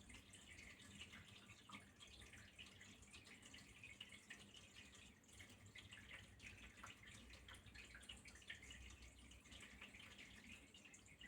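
Faint water trickling and dripping, with many small irregular drips and splashes over a soft steady rush.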